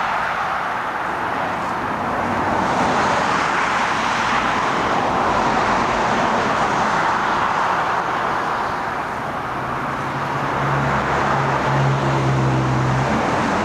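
Steady road traffic noise from passing vehicles. A low engine hum joins about ten seconds in and stops just before the end.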